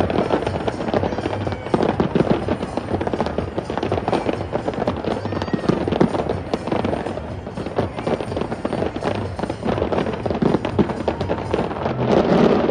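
Fireworks crackling in a dense, unbroken run of small cracks and pops, swelling louder near the end.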